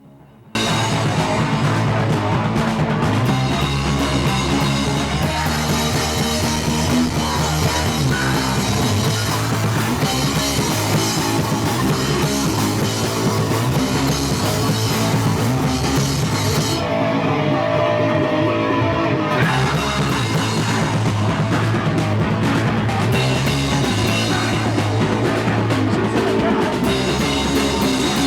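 A punk rock band playing live: loud guitars, bass and drum kit. It starts after a half-second gap, and about two-thirds of the way in the cymbals drop out for a couple of seconds under a held note before the full band comes back.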